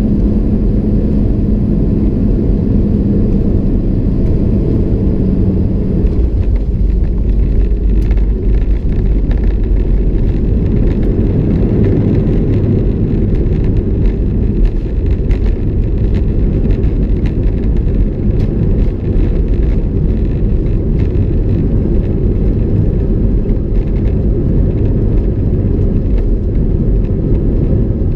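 Loud, steady rumble of an Airbus A319 heard from inside the passenger cabin. A low hum fades out about six seconds in, and short rattling clicks come through from about eight seconds on.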